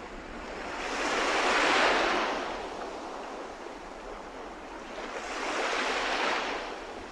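Sea waves breaking and washing in on the shore, two swells of surf about four seconds apart, the first peaking about two seconds in and the second around six seconds, with some wind on the microphone.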